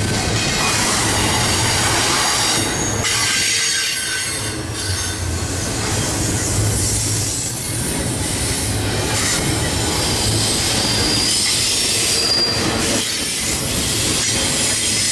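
Freight train cars rolling past on steel rails, with a steady rumble and the wheels squealing against the rail in thin high tones.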